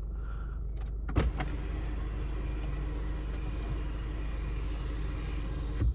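Electric sunroof of a Mercedes-Benz C220d sliding open: a click just over a second in, then its motor runs steadily for about four and a half seconds and stops with a click near the end.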